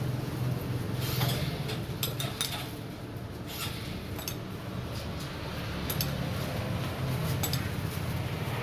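Glassware and metal utensils clinking in scattered light strikes, over a steady low hum.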